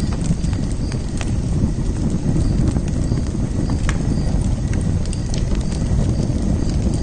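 Wood fire burning with a steady low rush and irregular sharp crackles and pops.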